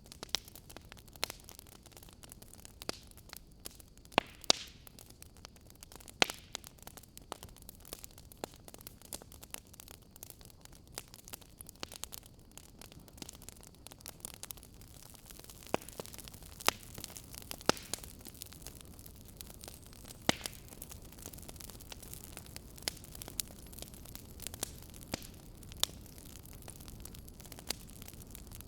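A fire crackling softly: irregular sharp pops and snaps, a few of them much louder than the rest, over a steady quiet hiss and low rumble.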